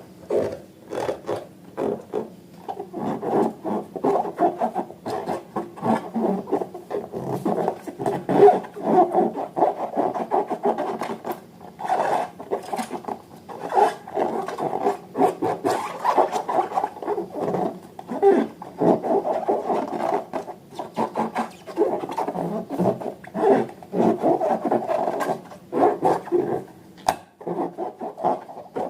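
Slime being worked and squished: a dense run of sticky squelches and crackly clicks.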